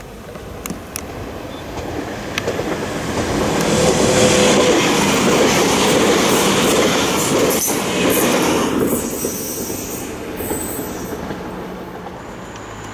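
Siemens Desiro electric multiple unit passing close at speed, its wheels running on the rails. A few sharp clicks come as it approaches, and the sound swells to a peak about four seconds in, holds, then fades as it draws away.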